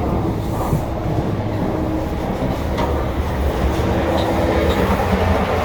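Passenger train running, heard from inside the carriage: a steady rumble of the wheels on the track with a faint steady hum and a few sharp clicks.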